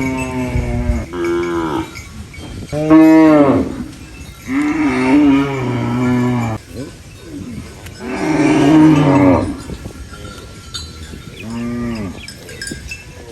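Cattle mooing repeatedly: about half a dozen separate calls of a second or two each, some overlapping, the loudest about three seconds in and again past the middle.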